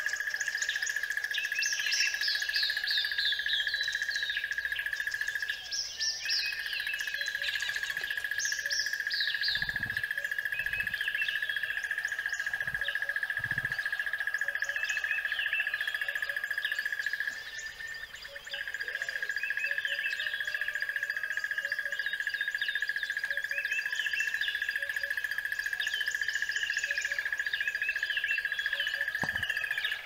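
Songbirds chirping and singing in quick falling phrases, over a steady high-pitched drone that drops out briefly twice.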